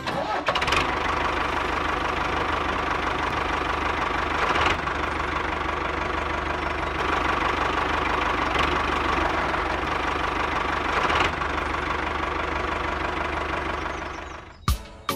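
Engine of a miniature toy tractor running steadily as it pulls a loaded trailer, fading out near the end, with a few sharp clicks just before the close.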